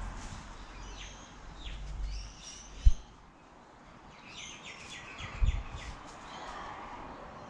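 Small birds chirping and twittering in short bursts, over a low wind rumble on the microphone that eases after about two and a half seconds. Two sharp low thumps, about three seconds in and again about five and a half seconds in, are the loudest sounds.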